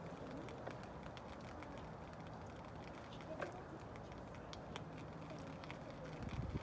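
Steady rain with irregular light taps of drops over a low background rumble.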